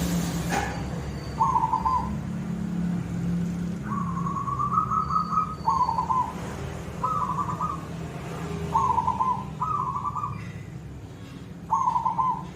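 Zebra dove (perkutut) cooing: a series of short trilled coos, about seven or eight, with a longer rising note about four seconds in.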